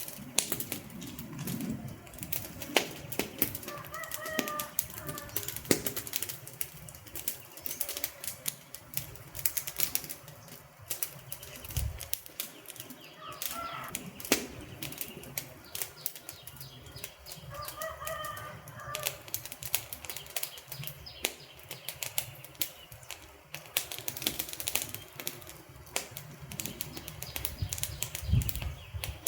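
Wood fire crackling, with dense, irregular sharp pops and snaps over a low steady rush of burning. Three brief faint pitched chirps come through about four, thirteen and eighteen seconds in.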